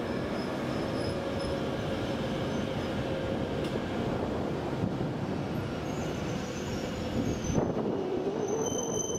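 E7 Series Shinkansen train running slowly past as it pulls into the station: a steady rumble of wheels on rail. There is a single knock about seven and a half seconds in, and a thin high tone joins near the end.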